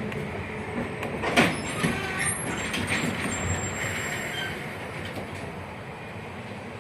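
71-619KT tram heard from inside the car while running on rails: a steady rumble with a few sharp wheel knocks in the first three seconds and a faint high wheel squeal. The noise grows gradually quieter toward the end.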